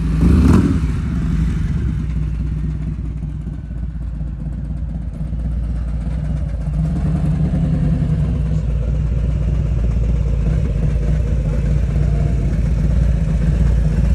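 Motorcycle engine running steadily with a low, even drone, cutting in abruptly at the start.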